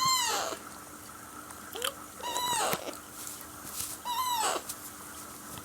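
Young Alexandrine parakeet chick giving three hoarse calls, each rising and then falling in pitch, about two seconds apart.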